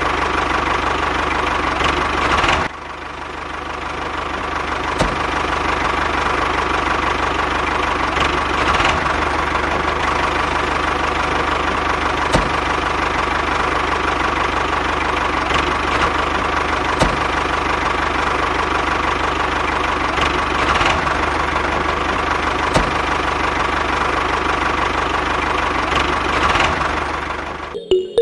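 Small motor of a homemade model tractor running steadily with a constant whine and scattered clicks. About three seconds in it drops suddenly and builds back up over a few seconds, and it cuts off near the end.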